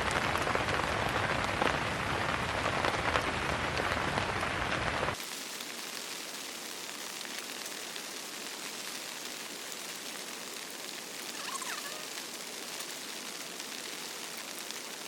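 Heavy rain pattering on tent fabric, a dense steady hiss. It is louder for about the first five seconds, then drops abruptly to a softer level.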